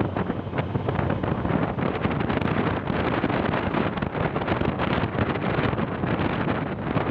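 Heavy wind buffeting the microphone over a vehicle engine running steadily, as when recording on the move.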